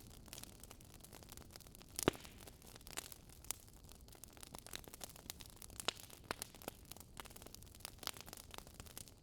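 Wood fire crackling: irregular sharp pops and snaps over a soft steady hiss, one louder pop about two seconds in.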